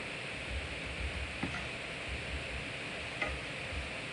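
Food frying in olive oil in a skillet on a gas stove: a steady sizzle with a couple of faint pops.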